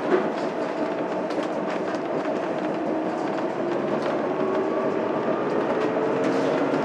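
Interior running sound of a Mitsubishi Fuso Aero Star city bus under way: its 6M70 inline-six turbo diesel hums steadily over road and body noise, with the engine note rising slightly in the second half.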